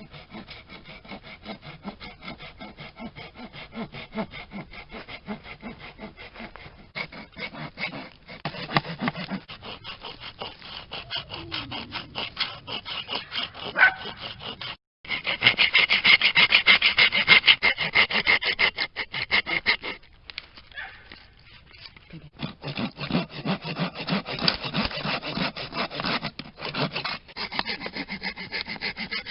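A hand tool working a bamboo cane in fast, even rubbing strokes. The strokes break off briefly about halfway through and go quiet again for a moment a few seconds later.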